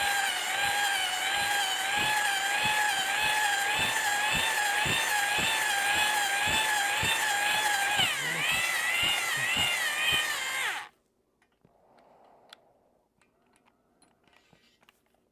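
Power drill spinning a stone cylinder hone in a cast-iron outboard bore: a steady whine that wavers in pitch, with rhythmic ticks a few times a second as the hone is stroked up and down to cut a crosshatch. The whine sags about 8 seconds in and cuts off about 11 seconds in.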